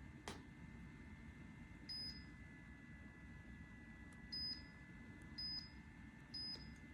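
A click, then four short, high electronic beeps from a humidifier's touch control panel as its buttons are pressed.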